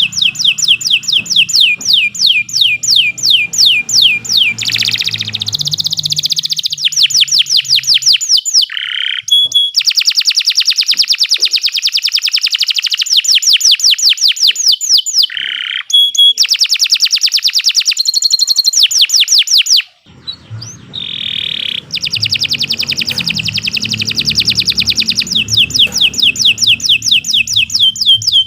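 Domestic canary singing a long, unbroken song of rapid trills, fast repeated high notes rolling one after another, with only a few short breaks.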